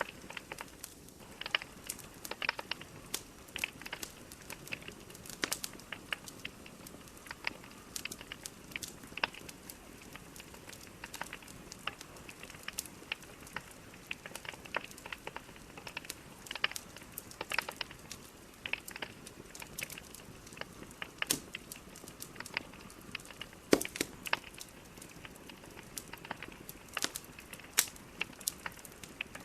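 Wood fire burning, with a steady low hiss under irregular crackles and snapping pops from the logs, a few sharper pops standing out.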